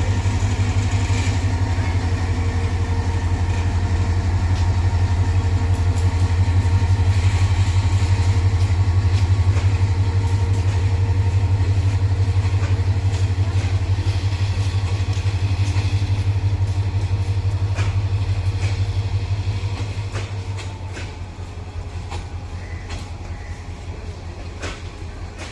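Moving train: a loud, steady low rumble that eases off about 20 seconds in, with scattered clicks later on.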